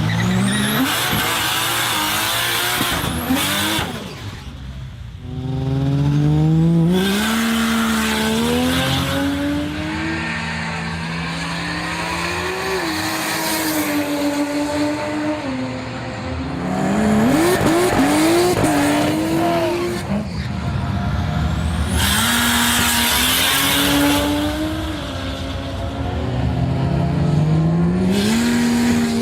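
Turbocharged Ford Barra 4.0-litre straight-six accelerating hard through the gears, its revs climbing and dropping back at each shift, again and again. Bursts of loud hiss come and go over the engine.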